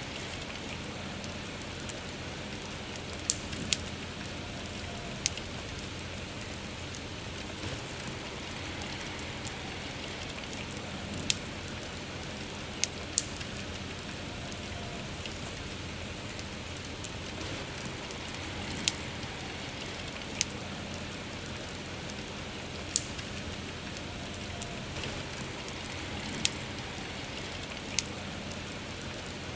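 Steady rain falling, with a campfire crackling and giving off an occasional sharp pop every second or two.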